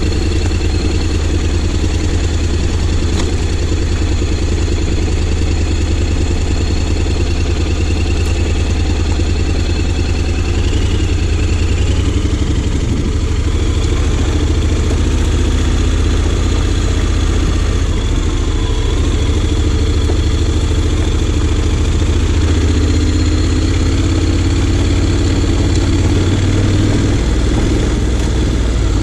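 Honda X-ADV 750's parallel-twin engine running steadily at low revs, with little change in pitch.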